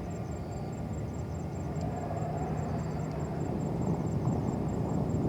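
Distant jet airliner engines rumbling low and slowly growing louder.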